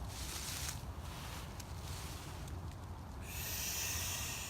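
A person taking a deep breath: a short breathy inhale at the start, then a longer, louder breath out starting about three seconds in, over a steady low rumble.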